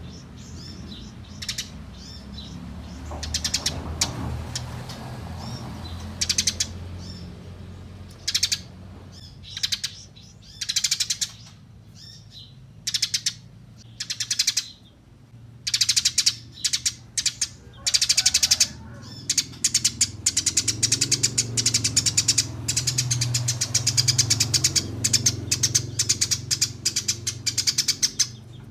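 Eurasian tree sparrows chirping in short bursts of rapid, high repeated chips, sparse at first and becoming dense and almost continuous in the second half, over a low background hum.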